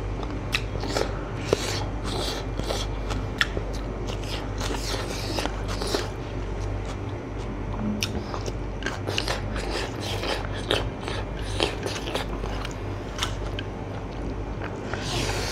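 Close-up eating sounds: a person chewing with the mouth open and smacking the lips, with many short wet clicks, over a low steady hum.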